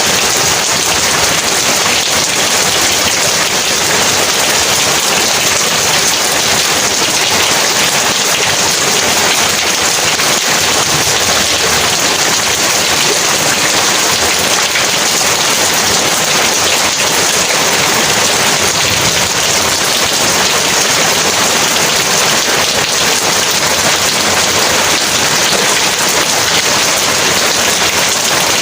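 Heavy rain falling steadily: a dense, even hiss of rain that does not let up.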